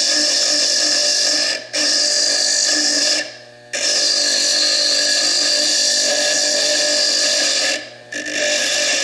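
Foredom bench lathe spinning a coarse burr against fire agate: a loud, steady, high grinding whine that cuts out briefly three times, about one and a half, three and a half and eight seconds in, as the stone comes off the burr.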